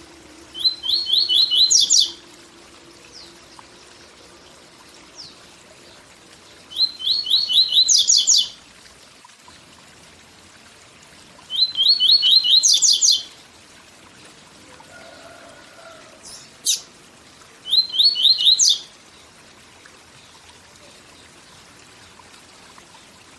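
A papa-capim seedeater singing its 'tui tui zel zel' song four times, several seconds apart. Each phrase is a quick run of repeated high notes rising into a higher trill, with one short sharp note between the third and fourth phrases, over a steady faint hiss of waterfall sound.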